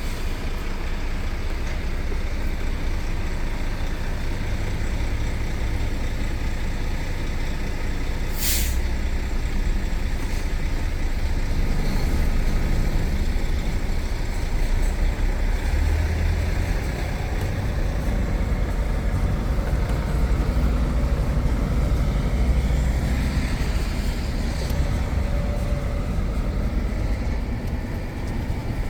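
Truck's diesel engine and road noise running steadily, with one short, sharp hiss of compressed air from the air brake system about eight seconds in.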